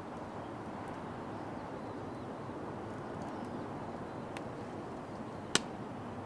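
Wood fire burning in a Petromax Atago fire pit: a steady low hiss with a few small crackles and one sharp pop about five and a half seconds in.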